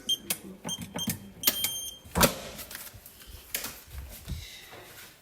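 A series of clicks and knocks with several short, high electronic beeps in the first second and a half, then a louder thump about two seconds in.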